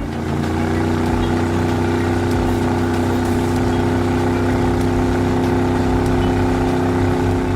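Engine sound effect: a steady pitched drone that climbs slightly over the first second and then holds level.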